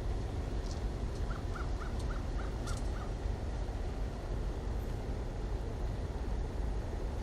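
A bird calling a quick run of about seven short notes, roughly four a second, over a steady low rumble.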